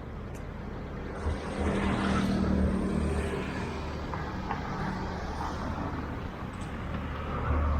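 Road traffic: a motor vehicle passes close by, its engine hum growing loudest two to three seconds in and then fading, with another vehicle coming up near the end.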